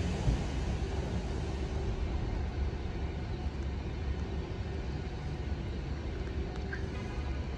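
Long Island Rail Road train rumbling steadily, with a low rumble and a faint steady hum, and no sharp events.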